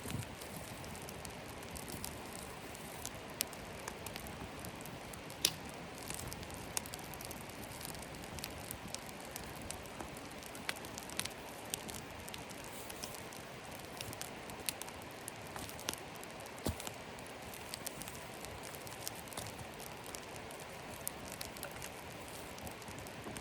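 Campfire of wet wood crackling with irregular sharp pops, the loudest about five and a half seconds in, over a steady patter of rain.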